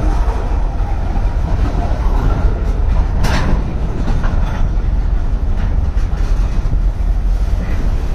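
Covered hopper freight cars rolling slowly along the track during switching: a steady low rumble of steel wheels on rail, with a few sharp clicks and clanks, the loudest about three seconds in.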